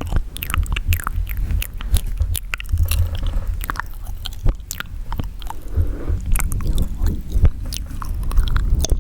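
Wet mouth sounds close to the microphone: a quick, irregular run of sharp clicks, smacks and pops, with moist squishing in between.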